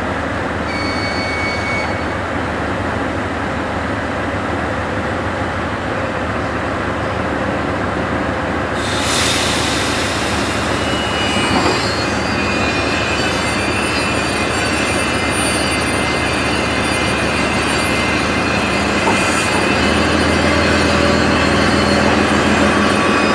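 DR1A diesel multiple unit's coaches rolling past, a steady rumble of wheels on rail. From about nine seconds in, thin high-pitched wheel squeal joins it, and a low drone grows near the end.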